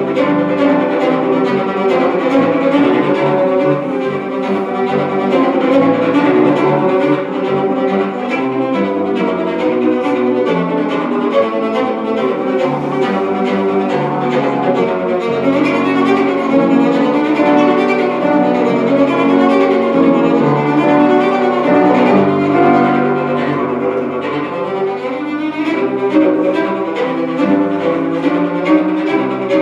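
A bowed string instrument playing classical music live, a continuous run of quickly changing notes.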